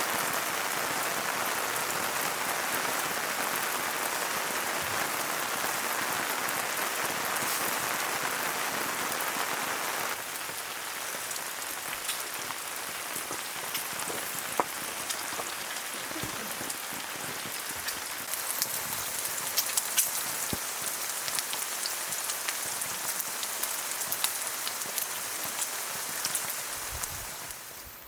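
Steady rain falling, with scattered drops ticking. The rain's hiss drops noticeably about ten seconds in and carries on lighter.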